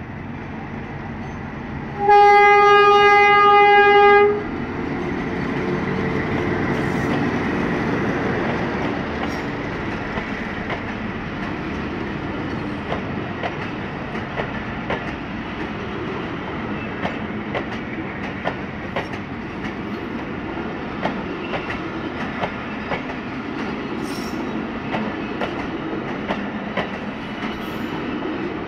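Diesel passenger train passing close by. About two seconds in, the locomotive sounds one loud, steady horn blast lasting a little over two seconds. The engine rumbles past after it, then the coaches roll by with a steady run of clicks as the wheels cross the rail joints.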